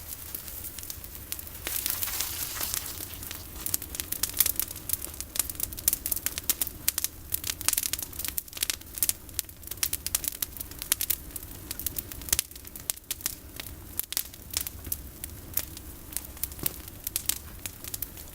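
Campfire of olive-tree prunings burning, with dense, irregular crackling and sharp snaps.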